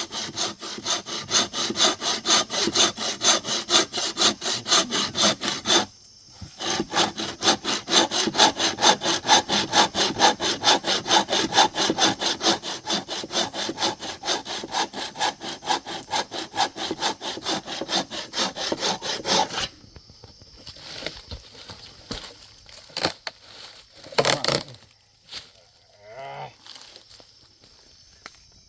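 Hand saw cutting wood in quick, even strokes, about three a second, with a short pause about six seconds in. The sawing stops about twenty seconds in, leaving a few scattered knocks.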